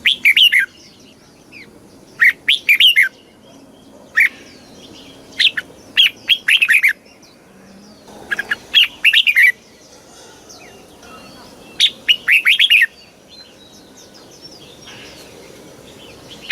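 Red-whiskered bulbul singing: short, bright phrases of quick warbled notes, repeated every second or two, with fainter chirps between the phrases.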